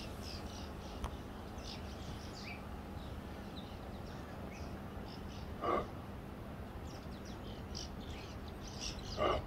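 Small birds chirping on and off over a low, steady outdoor background noise. Two short, louder animal calls stand out, one about six seconds in and one near the end.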